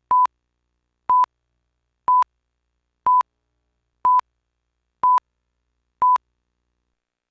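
Electronic beeps: a pure tone of about 1 kHz in seven short pips, one a second.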